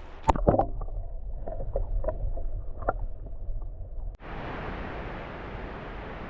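Low rumble of wind and handling on the camera microphone, with scattered knocks and clicks. About four seconds in, a sudden cut brings in a steady rushing hiss of falling water from a waterfall.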